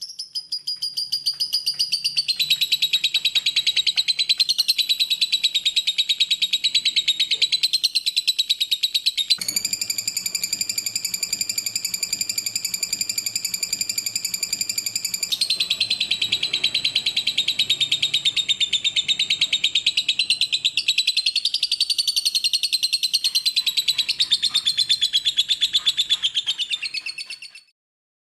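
Lovebird song: one long, unbroken, rapid chattering trill lasting close to half a minute. Its tone turns clearer and more even for several seconds about a third of the way in, then goes back to the chatter and stops suddenly.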